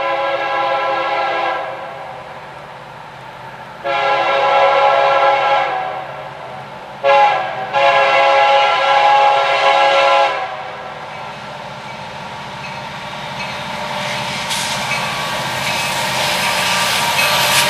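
Norfolk Southern diesel locomotive's multi-note air horn sounding the grade-crossing signal: two long blasts, a short one, and a long one. Then the rumble of the approaching train builds and brightens.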